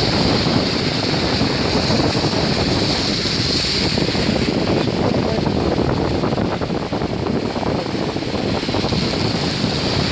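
Steady rushing water noise of cars ploughing through a deeply flooded street, their wheels pushing bow waves.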